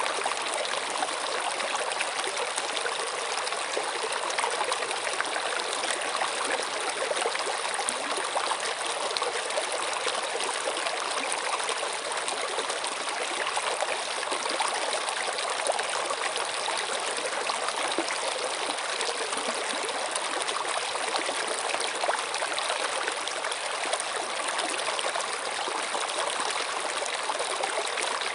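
A stream of water running steadily, with a continuous trickling rush.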